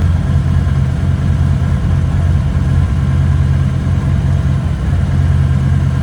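Harley-Davidson Heritage's V-twin engine running steadily and loud, with little change in speed.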